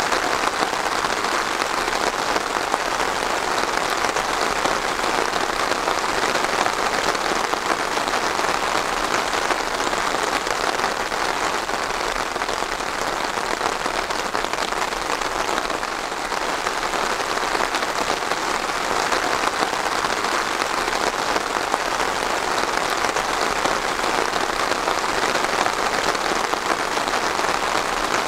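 Steady rain falling and pattering on a surface, a dense even hiss of drops.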